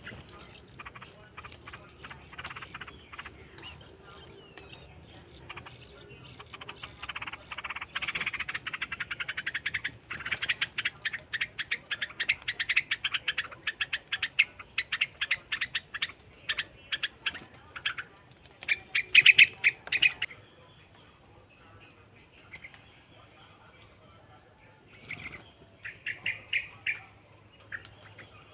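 Birds chirping in fast runs of high, rapid calls. The calls build up about a quarter of the way in, are loudest in a burst around two-thirds through, then fall away, with one more short burst near the end.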